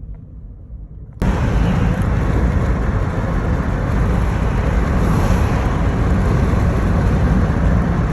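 Loud rushing wind and road noise of a car driving, cutting in suddenly about a second in and then holding steady.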